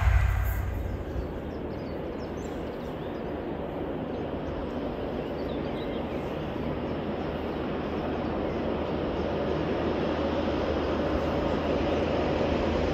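Diesel High Speed Train approaching from a distance, its power-car engine and wheels on the rails a steady rushing drone that slowly grows louder. A louder rumble fades out in the first second.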